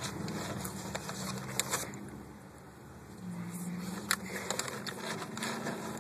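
Car engine idling with a steady low hum, with a few light clicks of handling noise, most of them about four to five seconds in.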